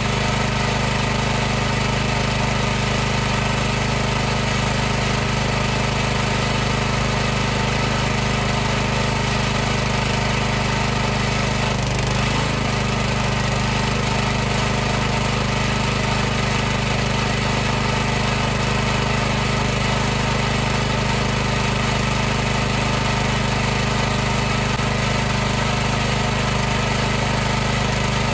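High-pressure washer's motor and pump running steadily: an unchanging hum with hiss over it, faltering very briefly about twelve seconds in.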